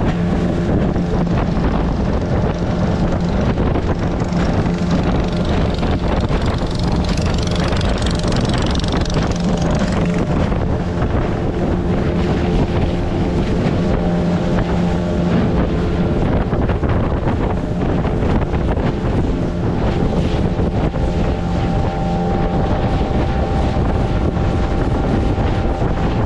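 A boat's motor running steadily at cruising speed, a constant hum over a rushing noise, with wind buffeting the microphone.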